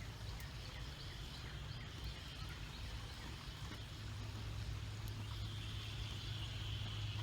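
Outdoor ambience: small birds chirping over and over above a steady low hum, with a steady high-pitched buzz coming in about five seconds in.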